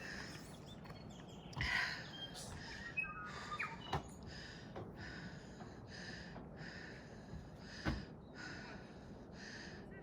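A person panting hard after a steep uphill climb, with rhythmic breaths following one another less than a second apart. A bird chirps briefly a few seconds in.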